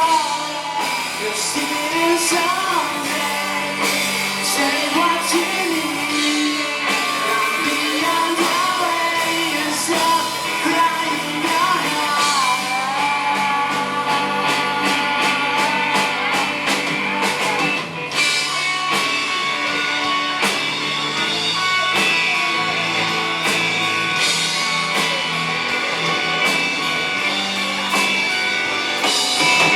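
Live rock band playing a cover song: a sung vocal over electric guitars and drums.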